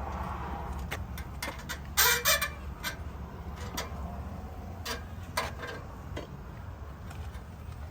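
Scania truck's oil dipstick being pulled and worked in its tube: scattered metallic clicks, with a louder scraping rattle about two seconds in, over a steady low hum.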